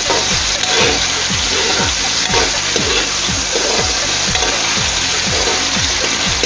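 Chopped tomato, onion, garlic and ginger sizzling in hot oil in an aluminium wok while being stirred with a metal ladle: a steady frying sizzle.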